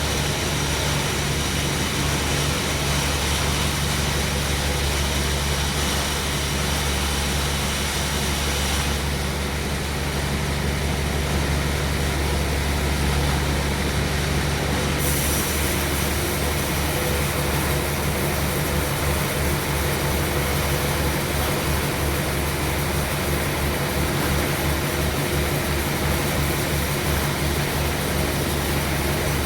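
Sawmill machinery running steadily while milling a durian log, with a low engine drone underneath. The higher part of the sound shifts about nine seconds in and again about fifteen seconds in.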